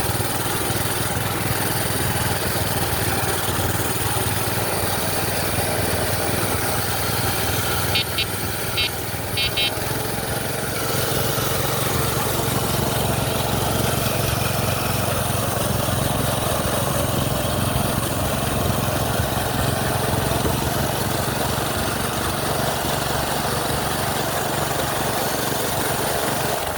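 Small minibike engine running steadily while riding. A few short high chirps come about eight to ten seconds in.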